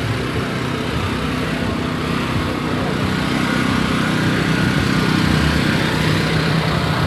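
A motor vehicle engine running steadily at idle, swelling slightly louder through the middle.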